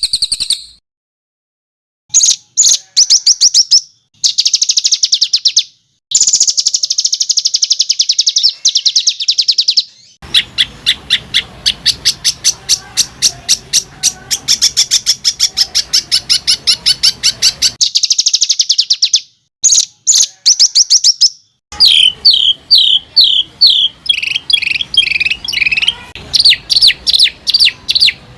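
Songbird song made of harsh, very fast trills: rapid runs of high, repeated notes in bursts of a few seconds, broken by short silences. A longer unbroken trill comes in the middle. In the last third the song changes to a string of quick notes that each slide downward.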